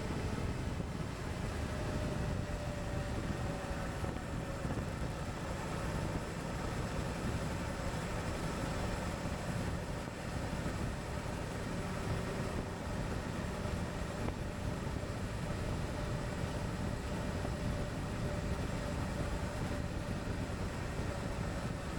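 Suzuki V-Strom 1050XT's V-twin engine running steadily at cruising speed, its pitch drifting slowly up and down, under a constant rush of wind and road noise.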